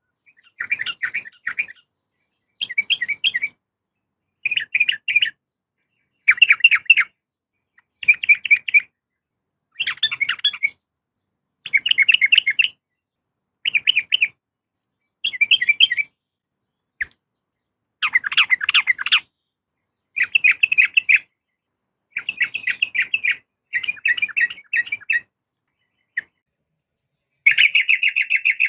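Yellow-vented bulbul (trucukan) calling: short bursts of rapid, chattering notes, repeated about every two seconds with silent gaps between. It is the call of a female calling for a male, played as a lure to set a caged male singing.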